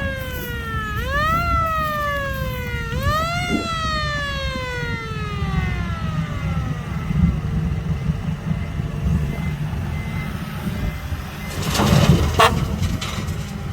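Heavy diesel dump truck running with a deep, loud exhaust rumble. Over the first few seconds a whine rises quickly and falls slowly in pitch, three times, then fades away. A short, louder burst of noise comes near the end.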